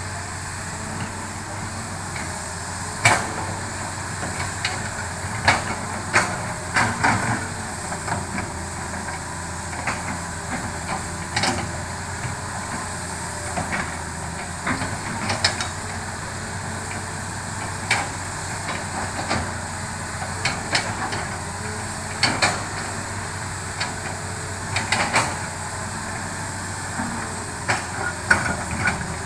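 Hitachi excavator's diesel engine running steadily while it works, with irregular sharp knocks and cracks from the digging and clearing, a few every several seconds.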